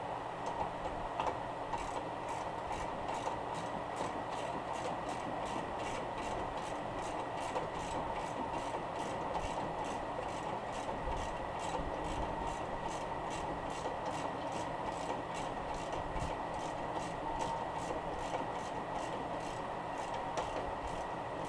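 Ratchet wrench clicking in a steady rhythm, about three clicks a second, as it runs down the 17 mm locking nut on a sway bar end link. A steady background hum sits underneath.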